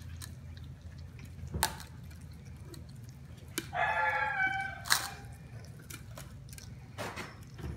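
Basset hound puppies eating mush from a dish, with wet smacking and lapping clicks. About halfway through, one puppy gives a short, high whine.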